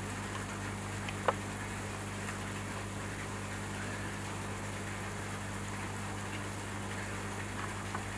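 Steady low hum under an even hiss like running water, with one sharp click a little over a second in.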